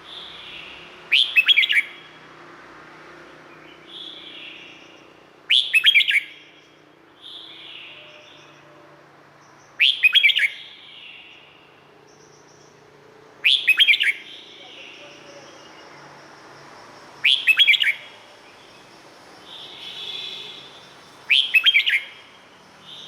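Red-whiskered bulbul singing: a short, loud phrase of rapid notes repeated about every four seconds, six times, with softer calls in between.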